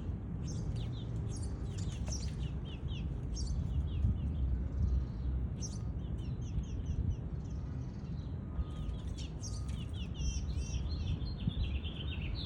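Small songbirds chirping: many quick, down-slurred chirps and higher call notes, growing busier near the end, over a steady low rumble.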